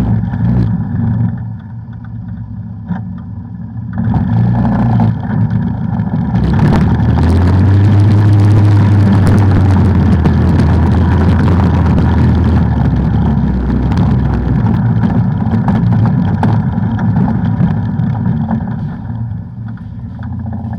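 Off-road vehicle engine running under way on a trail. It eases off for a couple of seconds, then picks up load and revs about six seconds in, staying loud before easing again near the end.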